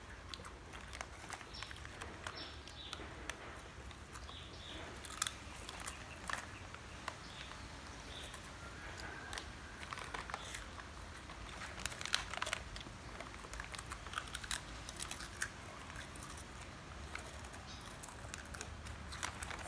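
Crunchy tomato snacks being chewed, with irregular crunches and clicks and an occasional crinkle of the snack wrapper.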